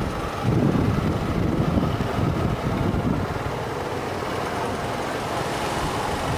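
Wind buffeting the microphone in uneven low gusts over steady outdoor background noise.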